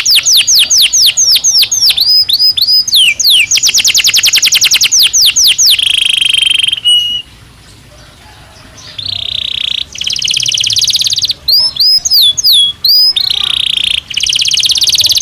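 Belgian canary (domestic canary) singing: fast trills of rapidly repeated high, down-slurred notes, a pause of about two seconds starting about seven seconds in, then further trills and rolls.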